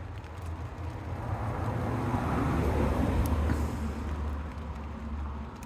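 A road vehicle passing by: its engine rumble and road noise swell to a peak around the middle and then fade away.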